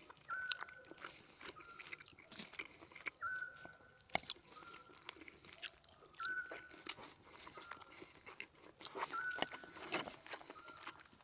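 Soft crunching and crackling of a crisp-crusted meat dish being bitten and chewed, in many small irregular clicks. A faint short two-note whistle repeats about every three seconds.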